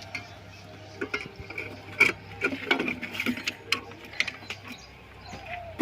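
Irregular clicks and light metallic taps, like hand tools and parts being handled on the tractor during servicing, over a faint steady low hum.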